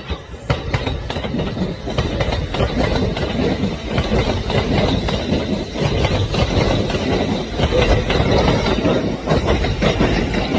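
Train running on rails, its wheels clattering over the rail joints under a loud rumble that swells about half a second in.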